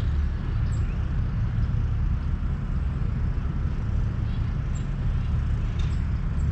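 Steady outdoor field-recording rumble, strongest in the low end, with a few faint short high chirps.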